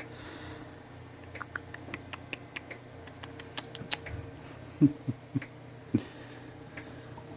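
Puppies moving about: scattered light clicks and ticks, then a few short low sounds about five seconds in, over a steady low hum.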